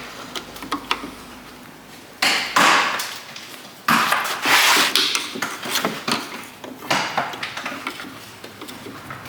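Clattering and scraping of plastic car body parts and tools being handled and worked loose. There are two longer scraping bursts, about two and four seconds in, and smaller knocks and clicks between them.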